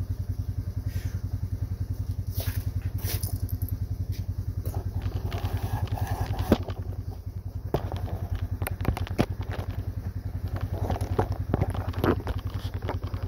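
Vehicle engine idling with a steady, even low pulse, with scattered clanks and knocks over it.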